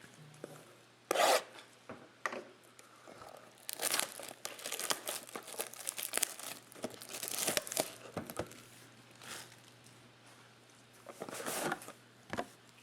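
Plastic and foil trading-card pack wrappers being torn open and crinkled by hand: a sharp rip about a second in, a long run of tearing and crumpling in the middle, and another rip near the end.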